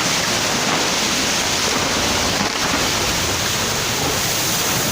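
Steady, even rush of water from heavy monsoon rain and flowing floodwater.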